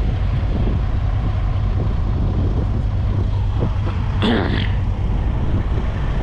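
Diesel engine idling with a steady low hum. A brief, higher pitched sound comes a little past four seconds in.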